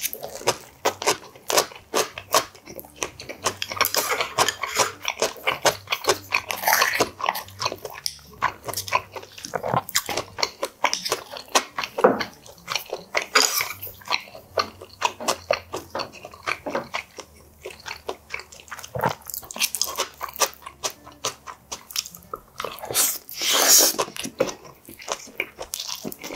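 Close-up eating sounds: chewing and lip-smacking, a dense run of short wet clicks as a man eats rice and side dishes.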